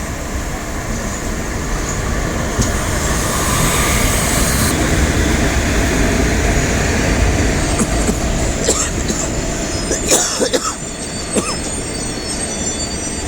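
A train rolling past on the rails: a steady rumble of wheels that builds to its loudest in the middle. Sharp clanks come about ten seconds in, and thin high-pitched wheel squeals follow near the end.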